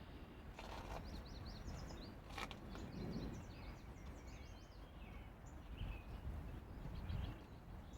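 Small birds chirping repeatedly over a low, steady background rumble. A brief rustle comes just under a second in, and a single sharp click about two and a half seconds in.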